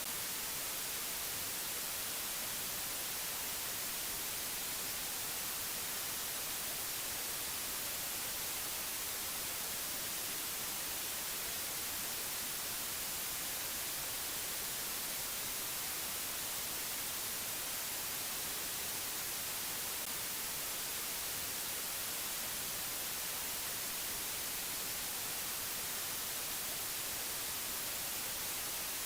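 Steady, unchanging hiss like static, brighter and stronger toward the high end.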